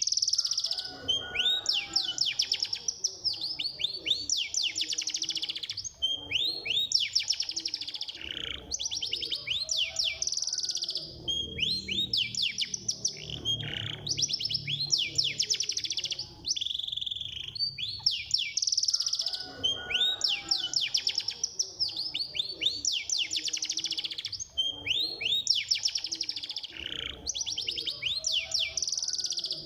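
Domestic canary singing a fast, continuous song of rapid high trills and rolling runs of notes, in phrases broken by brief pauses. It is a training song played to set other canaries singing.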